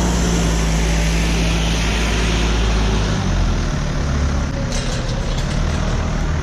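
A vehicle engine idling with a steady low note that shifts about three seconds in, and a quick run of clicks about five seconds in.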